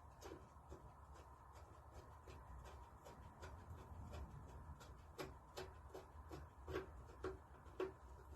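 Faint, regular clicking, about two to three clicks a second, growing louder about five seconds in, over a low steady hum.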